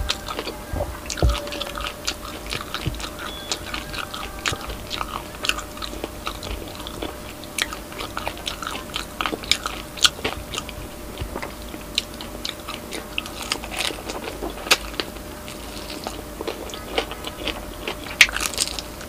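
Chewing and crunching of crispy pata, deep-fried pork knuckle with crackling skin, in irregular crisp crunches.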